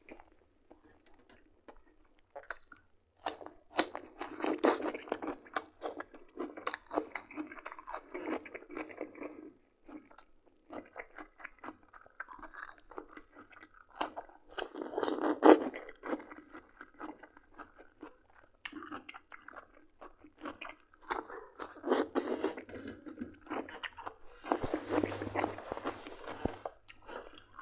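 Close-miked chewing and crunching of a fresh cucumber, in bouts separated by short pauses.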